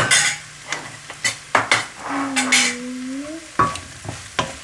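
Utensil scraping and clicking against a frying pan as scrambled egg and cooked ground meat are stirred, with sizzling underneath. A held low tone sounds for about a second in the middle.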